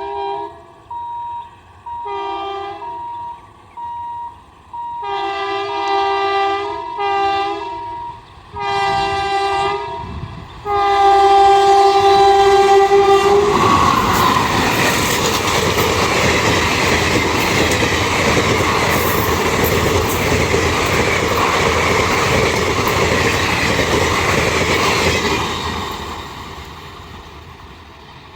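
Indian Railways train horn sounding about six blasts, short ones then a long one of about three seconds, followed by the train passing at speed, a loud rush of wheels on rails that fades away near the end.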